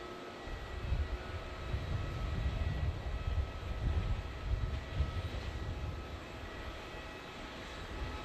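Airliner jet engines rumbling. The rumble swells about a second in, is strongest for the next few seconds, and eases after about five seconds, with a faint steady whine above it.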